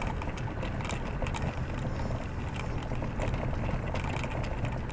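Vehicle interior noise while driving: a steady low engine and road rumble with faint, irregular clicking and ticking throughout.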